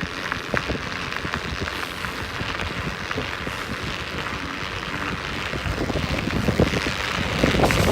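Wind rushing over the microphone and tyre noise from a vehicle on studded tyres rolling over slush, with many small crackles. It grows louder near the end.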